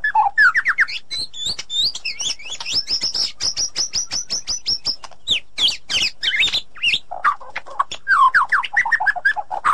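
White-rumped shama singing a fast, varied song: runs of rapid down-slurred whistles, a quick high trill in the middle, then more mixed phrases and another series of falling notes near the end.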